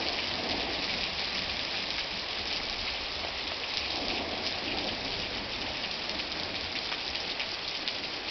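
Steady rain falling, a dense even hiss with many fine drops ticking on hard surfaces.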